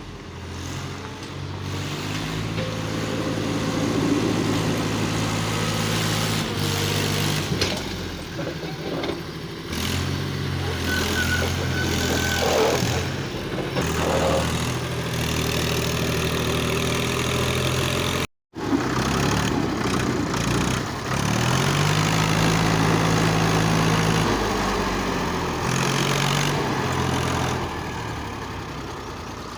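Heavily loaded tractor engine running under strain on a steep climb, its revs stepping up and down several times, with one rise in pitch about three-quarters of the way through. The sound cuts out completely for a moment about two-thirds of the way through.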